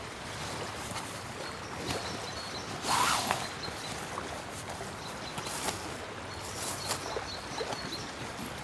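Short rustling and scraping handling sounds, the loudest about three seconds in and a few smaller ones later, over a steady outdoor background hiss.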